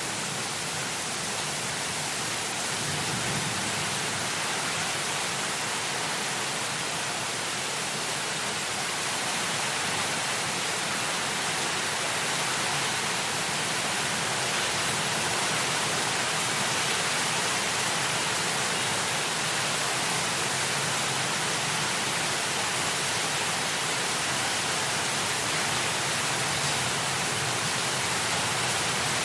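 Steady hiss of heavy rain, slowly growing a little louder, with a faint low rumble fading out in the first few seconds.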